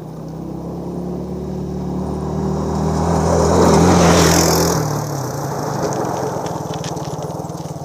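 A car driving past close by on the road: engine hum and tyre rush build to a peak about four seconds in, then the engine note drops in pitch as it passes and fades away.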